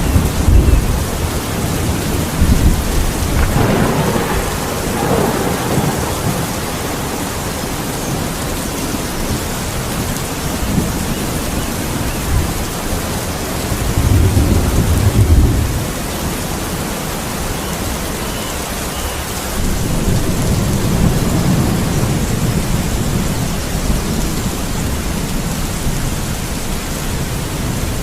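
Steady heavy rain with thunder rumbling over it several times: a roll right at the start, another about four seconds in, a louder one about fourteen seconds in, and a longer, lower rumble about twenty seconds in.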